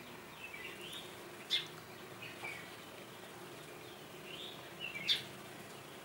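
Birds chirping in short, scattered calls that rise and fall. Two sharper, louder sounds come about one and a half seconds and five seconds in. A faint steady hum lies underneath.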